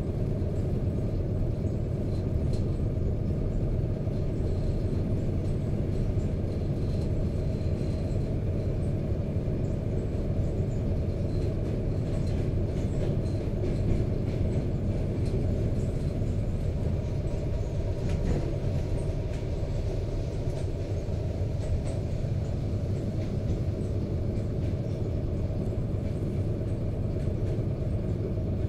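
ED4MK electric multiple unit running along the line, heard from inside the passenger carriage: a steady low rumble, with a few faint clicks about halfway through.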